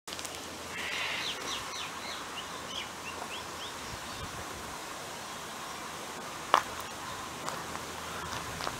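A bird singing a quick run of short chirps in the first few seconds, over a steady hiss, then a single sharp knock.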